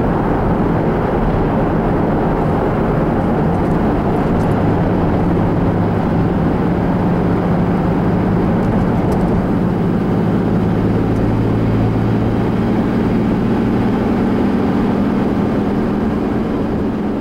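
Loud, steady mechanical noise with a low hum.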